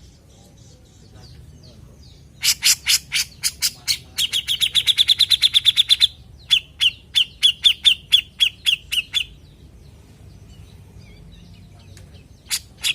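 Cucak jenggot (grey-cheeked bulbul) calling in rapid series of sharp, chattering notes. A fast run starts a few seconds in, a slower run of spaced notes follows after a brief break, and a new burst begins near the end.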